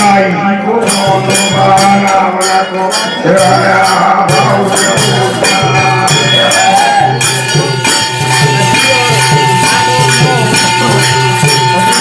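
Devotional jagran music: a voice singing over a steady, even percussion beat with jingling strokes. In the last few seconds a single high note is held steadily.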